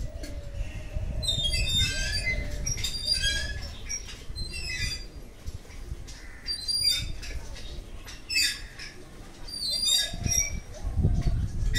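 Birds calling in short clusters of quick, sharp high notes, about six times. Under them runs a low rumbling on the microphone, loudest near the end.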